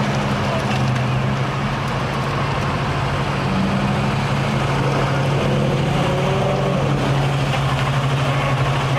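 C5 and C6 Corvette V8 engines idling as the cars creep past in a line, a steady low exhaust note.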